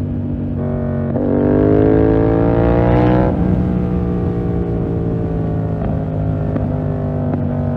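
A 2020 Yamaha MT-07's 689 cc parallel-twin engine running through a full SC-Project 2-1 exhaust while being ridden. The revs climb steadily for about two seconds, then ease off at a fairly steady, slowly falling pitch.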